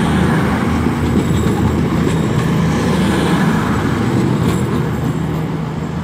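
Class 220 Voyager diesel multiple unit's underfloor diesel engines running under power as it pulls out, a steady loud drone with rumbling wheel and rail noise that eases slightly near the end.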